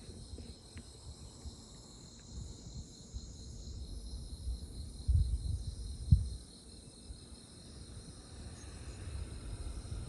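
Crickets chirping in a steady, high, pulsing chorus, with low rumbling bursts about five and six seconds in.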